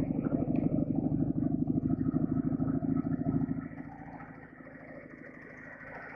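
Flat-twin motorcycle engine running loud and close with a rapid firing beat, then falling away sharply about three and a half seconds in to a quieter, steady running.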